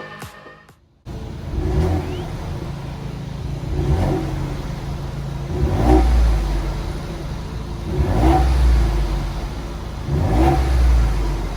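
2020 Ford Bronco's 2.7-litre twin-turbo EcoBoost V6 running through a Flowmaster exhaust, idling and revved five times, about every two seconds.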